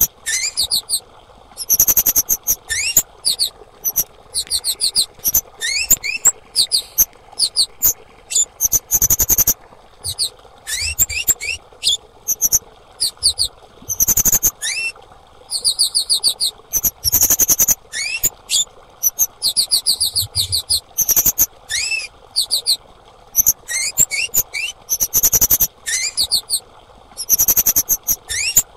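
Female kemade calling: bursts of rapid, high-pitched chirps mixed with short rising notes, repeating roughly every second, over a faint steady hum.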